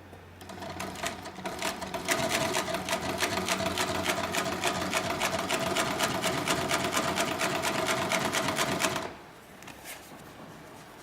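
HIGHTEX 768-273 industrial triple-feed post-bed double-needle sewing machine stitching. It starts just after the beginning, speeds up over about two seconds to a fast, steady run of rapid stitch clicks, and stops suddenly about nine seconds in.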